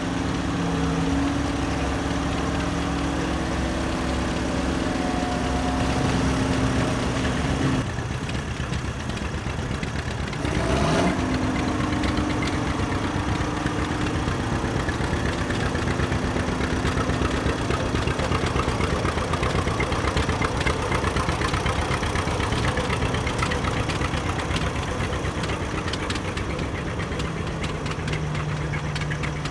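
Antique tractor engines running at low speed as tractors pass one after another, with a steady engine note that shifts as different tractors go by. About 11 s in there is a brief rising whine, and a deeper low hum comes in near the end.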